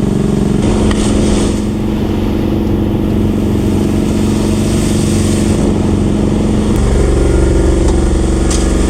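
Heavy equipment engine running steadily on the job site, its note shifting and growing heavier about seven seconds in.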